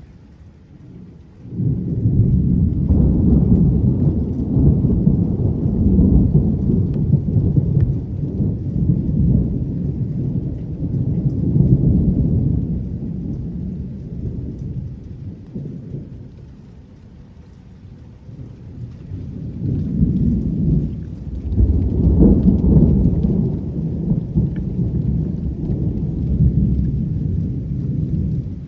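Long rolling thunder starting a second or so in, dying down after about fifteen seconds, then a second roll of thunder building about twenty seconds in, with rain falling steadily underneath.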